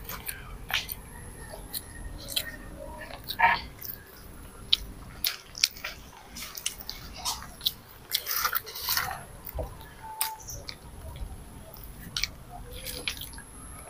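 A child chewing and smacking his lips close to a clip-on microphone while eating pancit canton noodles and boiled egg with his fingers. Scattered sharp mouth clicks, with short, louder smacks about three and a half seconds in and again around eight to nine seconds.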